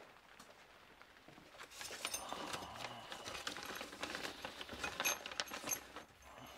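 Rummaging through small metal parts for stainless studs: a clatter of metal clicks and rattles with bright ringing. It starts about two seconds in and dies away near the end.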